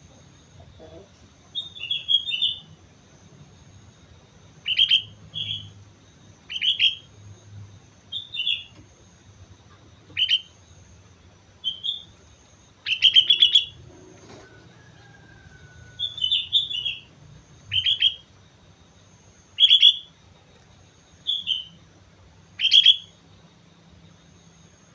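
Sooty-headed bulbul (kutilang) singing: short phrases of a few quick notes, repeated every one to two seconds.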